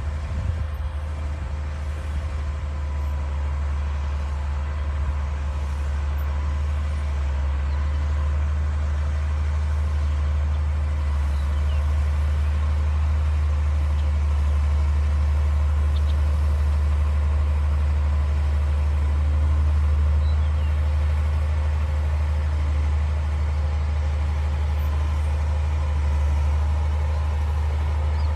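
D60 bulldozer's diesel engine running steadily, a deep low hum with a faint steady whine above it, growing a little louder over the first several seconds.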